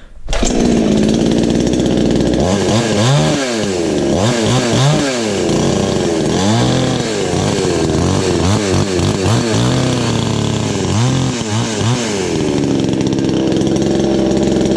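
Two-stroke engine of a cheap 22-inch Chinese clone chainsaw starting on a warm restart without choke. It fires up right at the start, idles briefly, then is revved up and down repeatedly with throttle blips, and settles back to a steady idle near the end.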